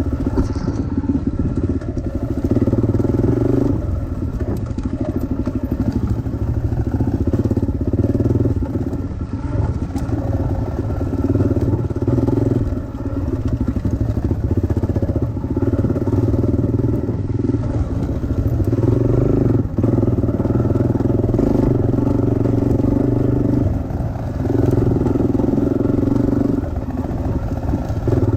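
Dirt bike engine running hard along a trail, the throttle opening and closing every couple of seconds so the engine note rises and drops in steps.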